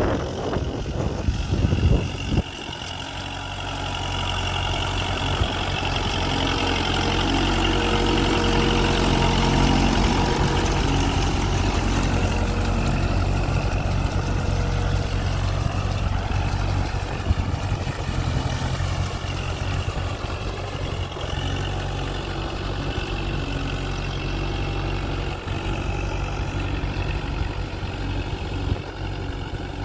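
Kubota MU4501 tractor's four-cylinder diesel engine running steadily, growing louder over the first several seconds and then holding. A few rough rushes of noise come in the first two seconds.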